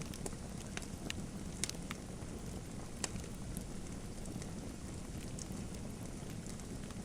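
Wood fire crackling in a fireplace: a steady low rumble of the flames with irregular sharp pops and snaps, about a dozen in seven seconds.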